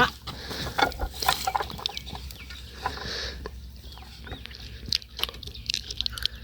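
Scattered short animal calls mixed with brief clicks and knocks.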